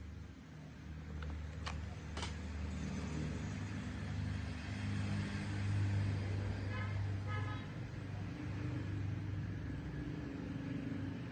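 Road traffic: a steady low engine rumble of vehicles that swells and is loudest about six seconds in. Two sharp clicks come near two seconds, and two short high beeps about seven seconds in.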